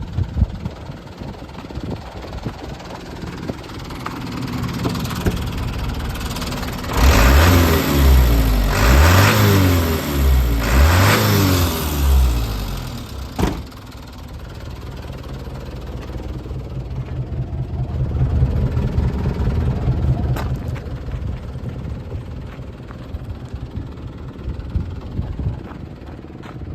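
Mitsubishi Canter's 4D33 four-cylinder diesel engine idling, revved up and down three times about seven to twelve seconds in, then settling back to a steady, rattly idle.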